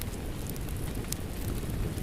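Steady rain with a wood fire crackling: a few sharp pops, one about a second in, over an even hiss with a deep low rumble.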